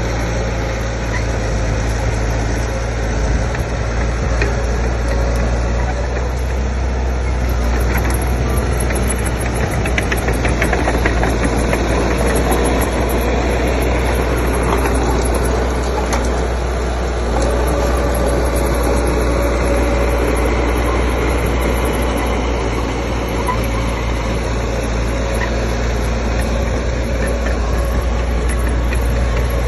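Diesel engine of heavy earthmoving machinery, a bulldozer or dump truck, running steadily with a deep low hum.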